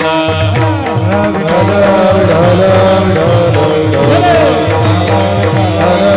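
Warkari kirtan music: a drum and jingling hand cymbals keep a quick beat under a wavering melody.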